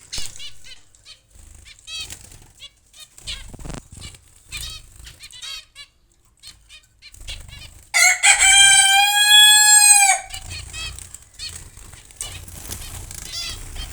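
Zebra finches in an aviary giving many short, nasal chirps. About eight seconds in, a much louder drawn-out call from another bird lasts about two seconds and then stops.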